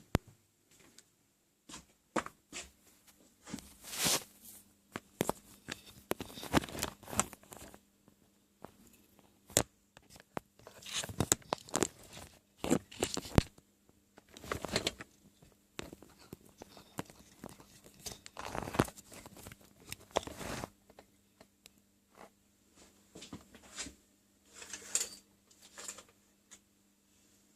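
Irregular rustling and crinkling noises, some short and sharp, some lasting a second or more, over a faint steady hum.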